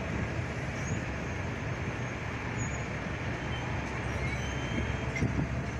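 Steady low rumble of a Metra commuter train pulling away from the grade crossing.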